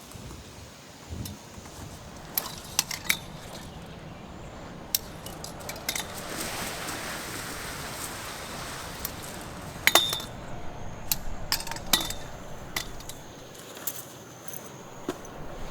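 Scattered light clinks and knocks of hard objects being handled, a few ringing briefly. A soft rush of noise swells through the middle.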